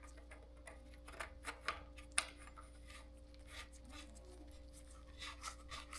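Faint metallic clicks and scrapes of an external bottom bracket cup being turned by hand into a steel bicycle frame's shell, the threads being restarted after a cross-thread. A few sharper ticks come between one and two and a half seconds in, over a faint steady hum.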